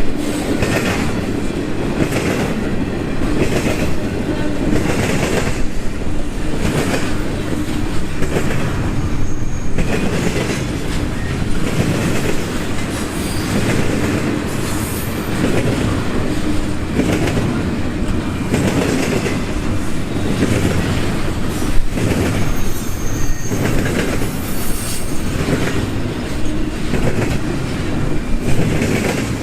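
Union Pacific intermodal freight train rolling past a grade crossing: a steady loud rumble of cars, with wheels clacking over rail joints every second or two and brief faint wheel squeals.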